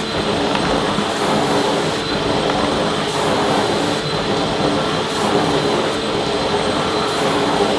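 Vacuum cleaner running steadily: an even rush of air with a constant motor hum and a thin high whine on top, unchanging throughout.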